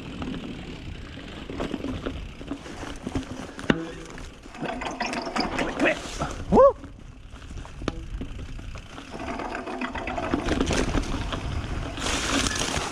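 Mountain bike being ridden down a trail feature: a steady rumble and rattle of tyres and bike over dirt and rock, with a sharp knock about four seconds in and again near eight seconds. The rider gives a short 'woo' about halfway through.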